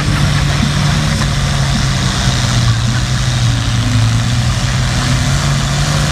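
International Harvester 966 pulling tractor's engine running hard under heavy load as it drags a weight-transfer sled, the pitch holding steady.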